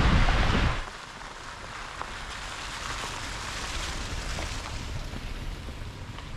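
Loud wind buffeting the microphone for under a second, cutting off suddenly; then a steady hiss of rain with scattered drops ticking, over a low vehicle rumble.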